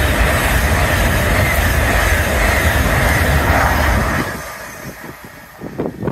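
LNER Azuma high-speed train passing at speed close by: a loud, steady rush of wheel-on-rail and air noise that fades away about four seconds in as the end of the train goes by.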